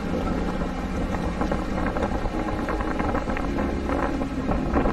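Small tour boat's motor running steadily, with wind buffeting the microphone and a few short clicks or knocks in the second half.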